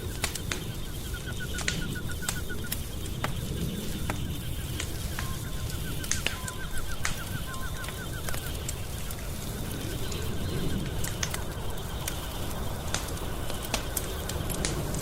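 Wood fire crackling in a fireplace: frequent sharp pops and snaps over a low, steady rumble of burning. Rapid chirping trills come and go in the background, twice in longer runs, over a faint steady high-pitched drone.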